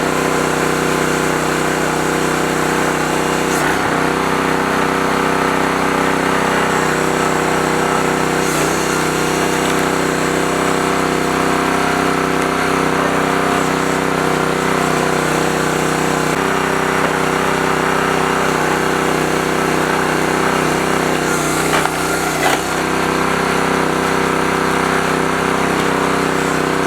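Newly installed small gasoline engine on a hydraulic log splitter running steadily at a constant speed, with a few brief knocks or cracks over the top, about 4, 8 and 22 seconds in.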